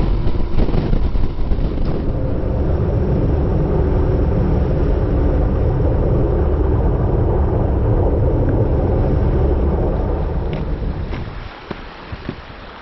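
Honda VFR1200X Crosstourer's V4 engine running at a steady pitch while the motorcycle is ridden, with wind and road noise. The sound fades away about eleven seconds in.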